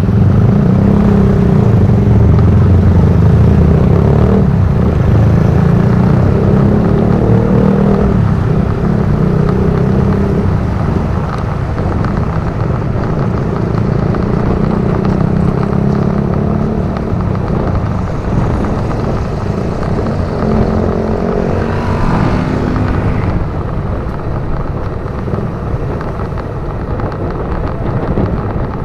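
Motorcycle engine running steadily while riding, with its pitch shifting as it goes, and a brief higher sound that rises and fades a little past twenty seconds in.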